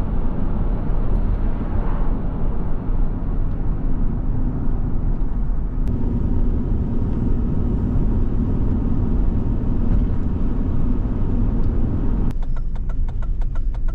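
Steady low road rumble and engine hum heard inside a moving pickup truck's cab. The higher hiss drops away suddenly near the end.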